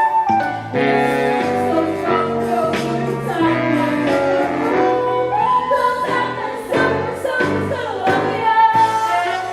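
Singers performing a stage musical song over instrumental accompaniment, with several long held notes.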